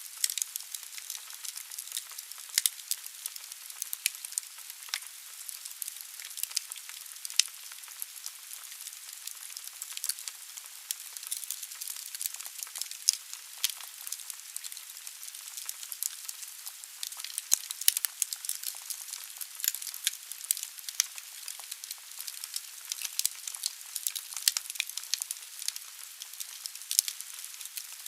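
Wood fire burning in a fireplace: a steady hiss of the flames with many sharp, irregular crackles and pops from the burning logs.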